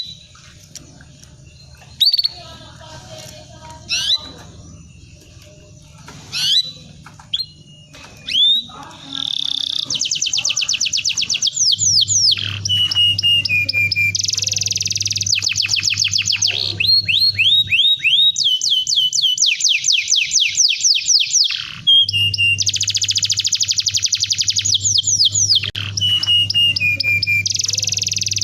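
Domestic canary singing: a few single rising chirps a couple of seconds apart, then from about nine seconds in a continuous song of fast trills of rapidly repeated notes and falling sweeps. A low steady hum runs underneath.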